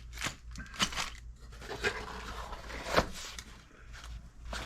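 Packaging and bagged kit parts being handled: scraping, crinkling and scattered light clicks, with one sharper knock about three seconds in.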